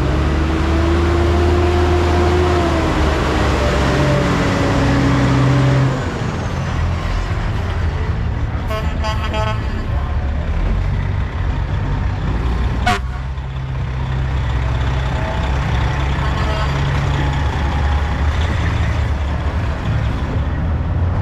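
A truck air horn held for several seconds, its pitch sagging as it dies away about six seconds in, over the steady running of diesel engines. A brief second horn note follows a few seconds later, and there is a sharp click near the middle.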